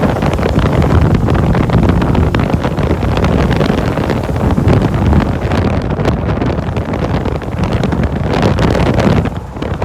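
1984 Land Rover's Rover 3.5-litre V8 engine running, with wind buffeting the microphone. The sound dips briefly near the end.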